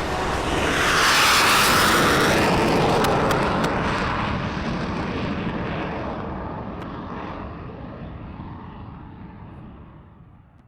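Fighter jet flying past: a jet rush that swells to its loudest about a second or two in, then fades away steadily to silence.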